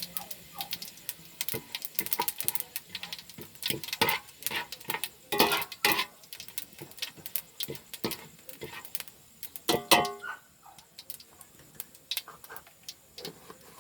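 Fennel seeds roasting in a hot pan, with irregular crackling and clicking and a few louder clatters of a utensil against the pan.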